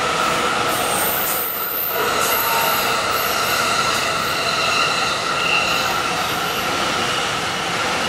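E001-series TRAIN SUITE Shiki-shima cruise train passing through a station at speed: the rush and rumble of its cars going by, with a steady high-pitched tone held over the noise.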